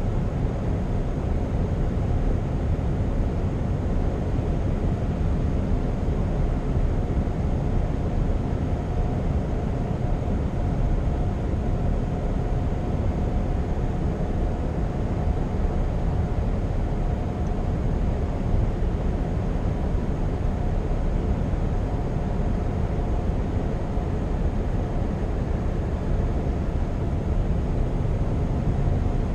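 Scania R520 truck's V8 diesel engine and tyres giving a steady drone on the road, with no change in pace.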